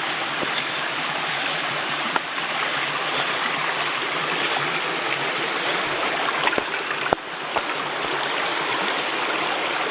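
Mountain stream rushing steadily over rocks, with a few faint clicks.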